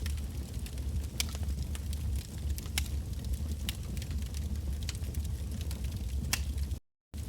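Wood bonfire burning: frequent sharp crackles and pops over a steady low rumble. The sound drops out to silence for a moment near the end.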